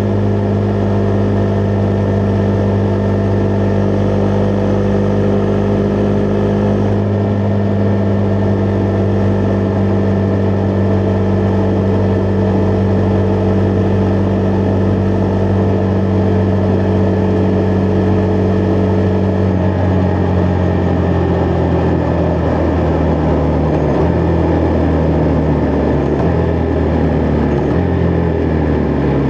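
Husqvarna Vitpilen 401's single-cylinder engine under way at a steady cruise, then from about two-thirds through the engine speed changes up and down several times and falls near the end as the bike slows.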